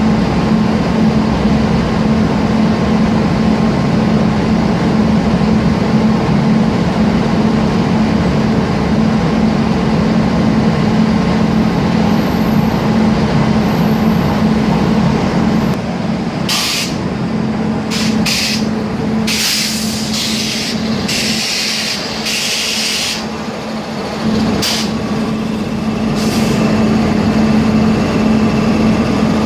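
A steady machine hum, like a large engine running, with a run of short hissing bursts starting about halfway through.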